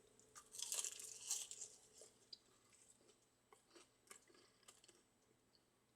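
A person chewing and crunching food, loudest in the first two seconds, then only faint scattered crunches.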